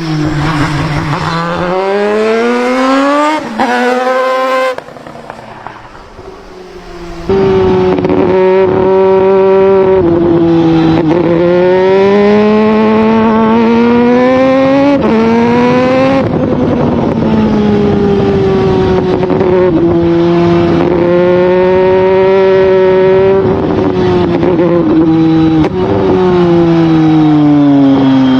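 Crighton CR700W racing motorcycle's twin-rotor rotary engine running hard and revving, its pitch climbing and dropping through gear changes. It goes quieter for a couple of seconds about five seconds in, then comes back loud at about seven seconds with repeated swells and drops in pitch.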